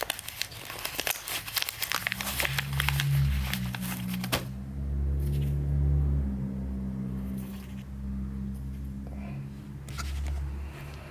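A leather wallet and paper banknotes being handled, rustling and crinkling, for about the first four seconds. After that a low steady hum with a few held deep tones takes over.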